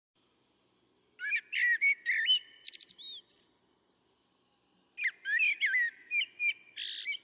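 A songbird singing two quick, varied phrases of whistled and chirping notes, the first starting about a second in and the second about five seconds in.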